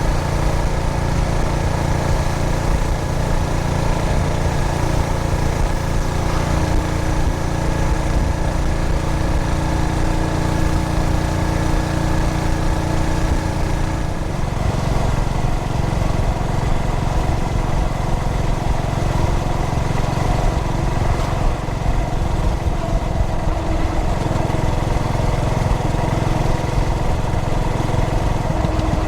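A 2003 Yamaha SR400's air-cooled single-cylinder engine running steadily under way on the road. Its pitch shifts about halfway through.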